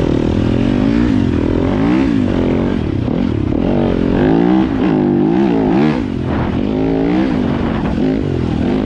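Yamaha YZ250FX dirt bike's single-cylinder four-stroke engine being ridden hard on a trail, its pitch rising and falling roughly once a second as the throttle is worked on and off.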